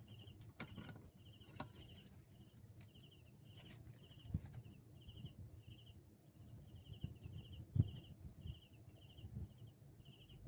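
An insect chirping steadily: short trilled chirps, about two a second. Under it is a low rumble with a few soft knocks.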